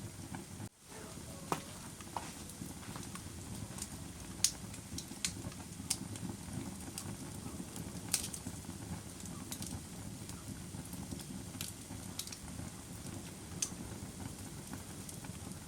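Wood fire burning: a steady low rumble with scattered sharp crackles and pops, about one every second or two. The sound dips briefly almost to silence about a second in.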